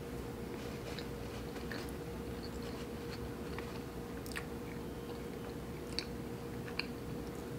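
Close-up biting and chewing of a chocolate-covered peanut butter brownie, with scattered small clicks and crackles, over a faint steady hum.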